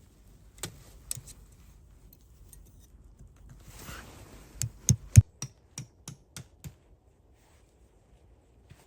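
A series of sharp clicks and knocks: a few scattered at first, then a quick run of about eight, the loudest two about five seconds in, growing fainter after.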